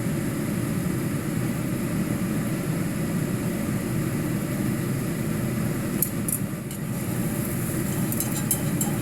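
A steady low rushing noise from a stove running on high heat, with a few light metallic clinks of a utensil against the pan about six seconds in and again near the end.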